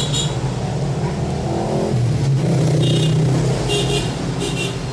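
A motor vehicle engine running, with three short high-pitched beeps in the second half.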